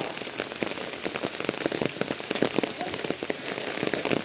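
Steady rain falling, a dense irregular scatter of drop hits over an even hiss.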